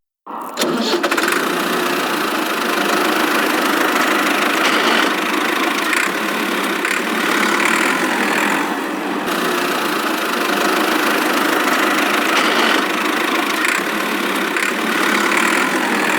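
A small engine or motor on a DIY model tractor starts suddenly about half a second in, then runs steadily with a rough, buzzing sound.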